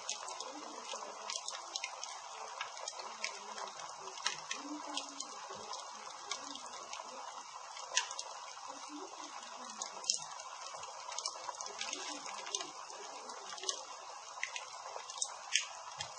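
Wood campfire crackling: irregular sharp pops and snaps over a steady hiss, with a few louder pops about halfway through and near the end.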